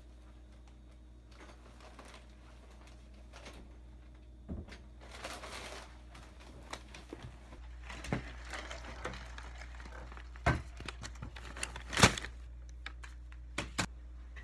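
Handling noises: rustling and crinkling with scattered sharp clicks and knocks, over a steady low hum.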